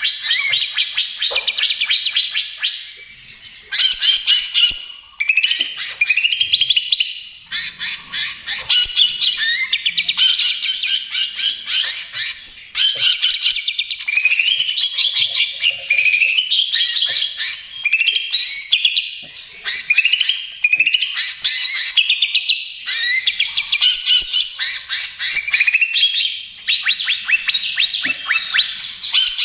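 Green leafbird (cucak ijo) singing a fast, nearly unbroken song of rapid chattering notes and rising whistled sweeps, phrase after phrase with only brief pauses.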